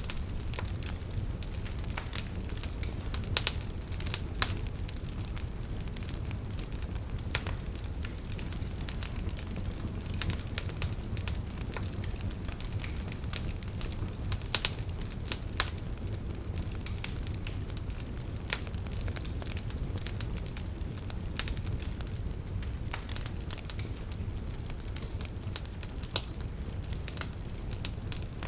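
Wood fire burning in a fireplace: a steady low rumble of the flames with irregular crackles and snaps, and a few louder pops.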